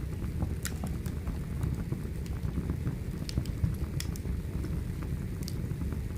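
Wood fire crackling: scattered sharp pops and snaps over a steady low noise of the burning logs.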